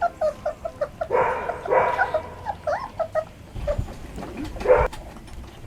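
Young English setter puppies whining and yipping in a quick series of short, high-pitched calls, with a couple of brief noisy bursts among them.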